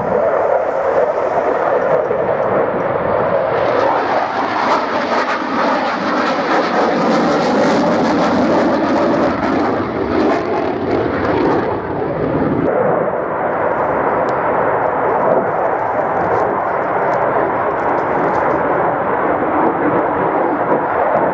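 Saab Gripen jet fighter's Volvo engine noise during a display pass, swelling to a loud, bright peak between about 4 and 12 seconds and then dropping back suddenly as the jet moves away.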